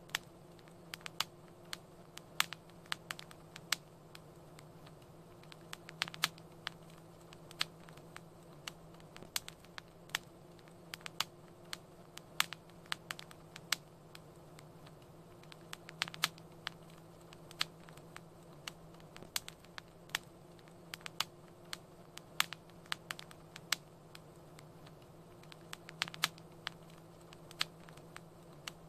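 Wood fire crackling in a fireplace: irregular sharp pops and snaps, several a second, over a faint steady low hum.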